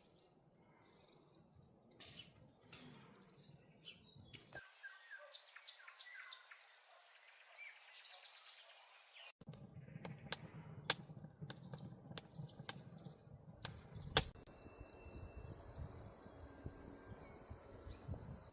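Faint rural ambience with birds chirping and singing. A high, thin trill runs through much of it and pulses more quickly near the end, with scattered light clicks and knocks.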